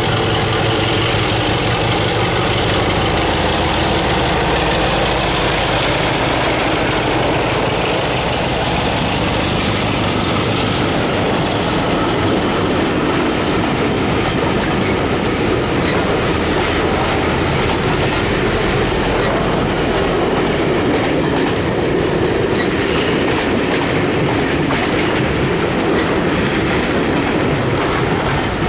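A diesel-hauled passenger train passing close by. The lead Class 33 diesel locomotive's engine is heard for the first several seconds and fades, then the coaches' wheels clatter rhythmically over the rail joints, with a little wheel squeal.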